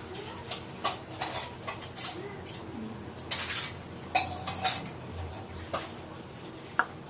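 Spoons and kitchen utensils clinking and knocking against a bowl and containers during dough preparation: a string of irregular clinks, with a longer scraping rustle about three and a half seconds in.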